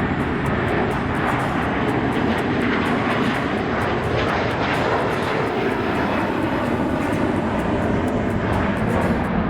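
Jet airliner engines running, a steady loud rush with no breaks.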